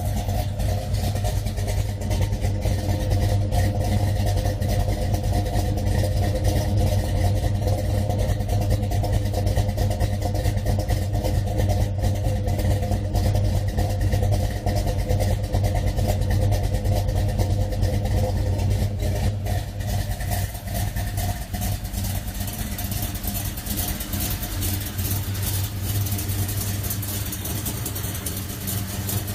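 A car engine running at a steady idle: a low, even rumble with no revving. It gets slightly quieter after about twenty seconds.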